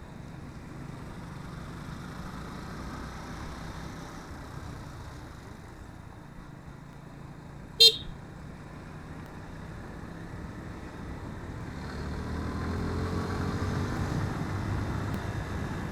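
Motorcycle engine running under way with road and wind noise, a single short horn beep about eight seconds in, then the engine rising in pitch and getting louder from about twelve seconds in as the bike accelerates.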